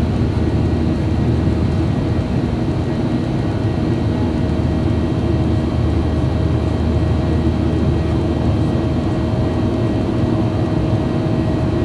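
Steady drone of a Boeing 737-800's engines and rushing air, heard inside the passenger cabin, a deep, even rumble with a faint steady hum above it.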